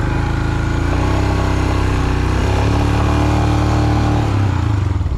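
Royal Enfield Himalayan's single-cylinder engine revving under load as the bike is ridden up a steep slope of loose soil. The revs rise about a second in, hold, and fall back near the end.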